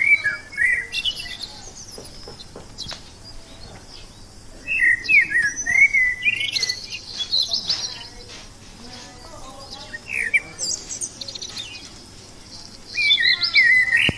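Parakeet (betet) giving bursts of quick, shrill chirping calls, four separate bursts of rapid rising and falling chirps.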